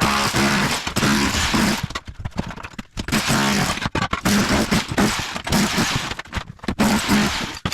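Bosch Bulldog Max SDS-Plus rotary hammer with a tile chisel hammering away, breaking up ceramic floor tile and cement board. It runs in long bursts with a few brief pauses.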